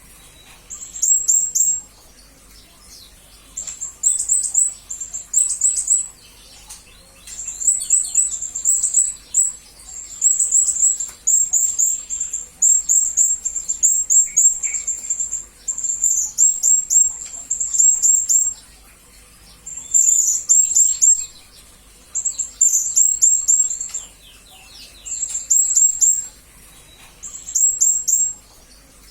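Blue-crowned hanging parrot (serindit) calling in quick runs of high, thin chirps, in repeated bursts of about one to two seconds with short pauses between, and one longer unbroken run in the middle.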